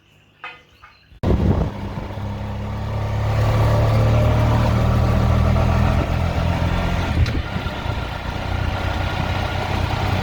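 A motor vehicle's engine running steadily, cutting in abruptly about a second in.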